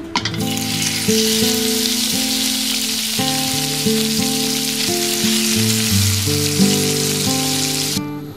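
Diced raw pork hitting hot oil in a wok and sizzling steadily, the sizzle cutting off suddenly near the end. Soft acoustic guitar music plays underneath.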